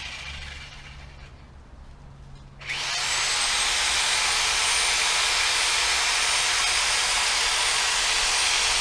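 Reciprocating saw cutting tree branches: the motor is still winding down at the start and goes quiet for a couple of seconds. Nearly three seconds in it starts again with a quick rising whine and then runs steadily at full speed.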